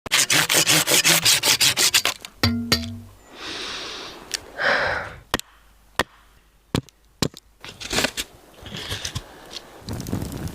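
Fast, even rubbing or scraping strokes, about six a second, for the first two seconds, then a brief ringing tone and scattered sharp clicks and scrapes.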